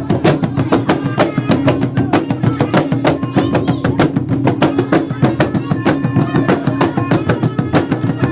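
Traditional North Maluku dance music: fast, steady drumming at about five strokes a second, with a wavering melody over it.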